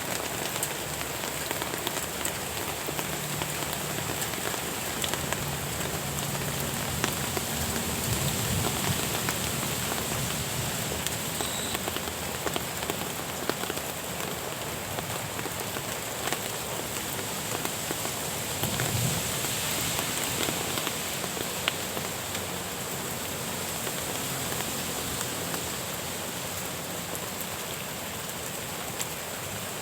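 Steady rain falling, an even hiss with many sharp individual drops ticking close by.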